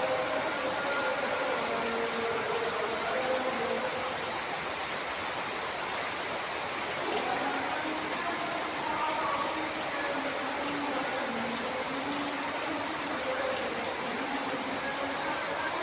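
Steady rain falling, an even hiss throughout, with two brief sharp ticks about six and twelve seconds in.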